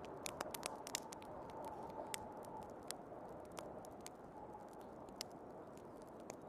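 Wood fire crackling with sharp, irregular pops over a steady low rush of blizzard wind.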